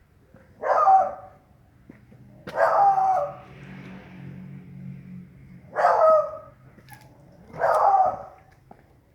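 A dog barking four times, a couple of seconds apart, at a porcupine it is agitated by.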